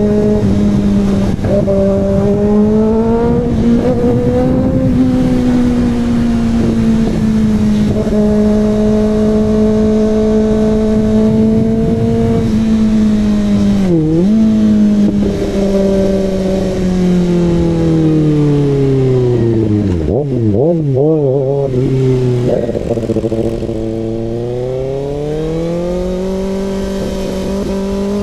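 Kawasaki ZX-6R inline-four running through an SC-Project CRT exhaust while being ridden, the engine note held steady for long stretches. It dips sharply and recovers about halfway through, then falls slowly as the bike slows, and rises again as it pulls away near the end.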